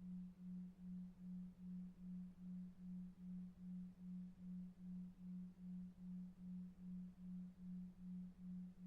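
A soft, low sleep tone pulsing about two and a half times a second, a 2.5 Hz delta-wave beat, over faint brown noise.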